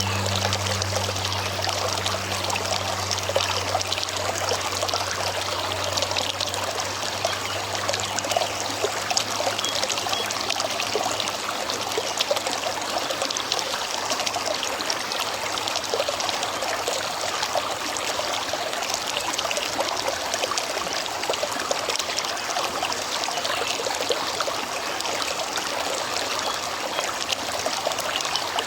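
River water flowing steadily: a continuous, even rush and trickle over the stream bed.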